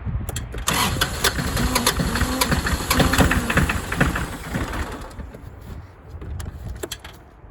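Starter cranking a cold three-cylinder 1997 Massey Ferguson diesel tractor engine after glow-plug preheating, turning it over rapidly without it catching; the cranking stops about five seconds in. It is a hard cold start in freezing weather after weeks unused.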